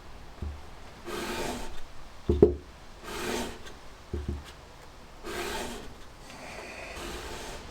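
Carburettor base rubbed back and forth on sandpaper over a flat surface: about four long rasping strokes, with short dull knocks between them as the carb shifts on the surface. The base is being lapped flat because overtightening has warped its mounting face.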